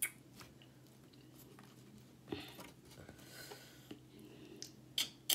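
Faint close-up chewing, with a few sharp clicks near the start and near the end.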